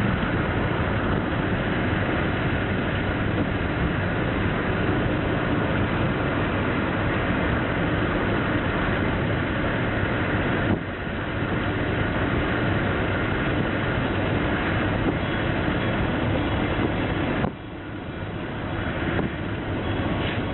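Steady, dense mechanical rumble like running vehicles or machinery, with no clear pitch. It dips abruptly about eleven seconds in and again about seventeen and a half seconds in, as if cut.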